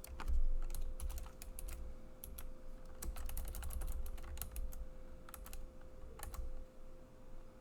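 Typing on a computer keyboard: irregular runs of keystrokes that thin out about six seconds in.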